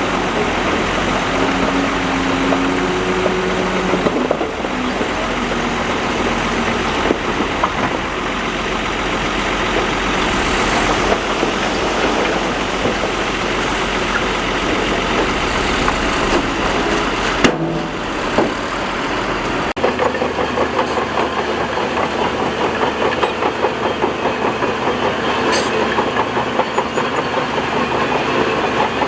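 Heavy earthmoving machinery running steadily, engine noise of a bulldozer at work. About two-thirds through the sound changes abruptly to a lighter, rapidly pulsing engine note.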